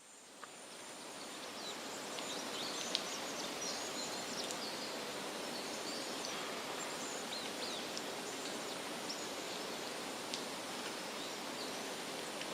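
Outdoor nature ambience fading in over the first couple of seconds: a steady hiss-like background with faint, scattered high chirps.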